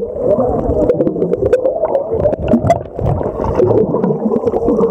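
Muffled underwater sound picked up by a submerged camera: bubbles and water churning, with scattered sharp clicks.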